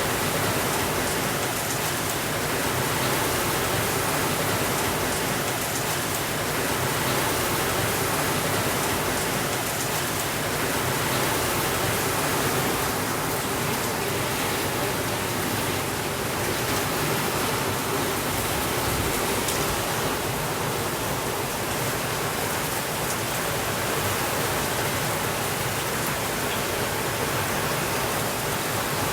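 Heavy rain falling steadily as an even, unbroken hiss, with a few faint sharp ticks.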